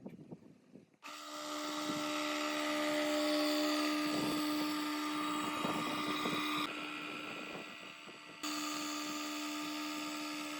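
A small electric power tool's motor running at steady high speed with a steady whine. It starts abruptly about a second in, drops away for about two seconds past the middle, then runs again.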